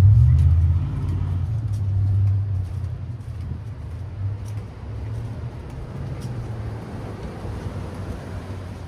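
Low rumble of a car running nearby, loudest at first and fading over the following seconds, with a few faint clicks.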